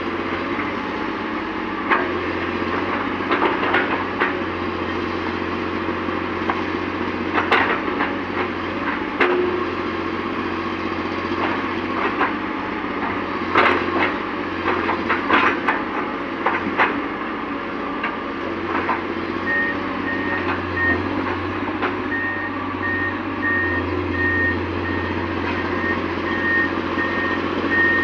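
Hydraulic excavator working: its diesel engine runs steadily under scattered sharp knocks and clanks from the digging. About two-thirds of the way in, a repeated electronic warning beep starts, typical of the machine's travel alarm.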